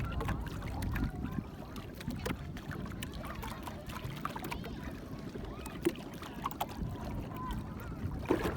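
Steady low rumble and water noise of a boat under way, with scattered light knocks and faint voices.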